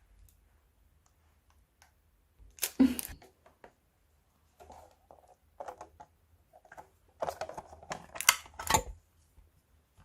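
Hands squeezing and pressing crunchy slime, giving crackling, popping bursts in three spells, the loudest about three seconds in and near eight seconds in.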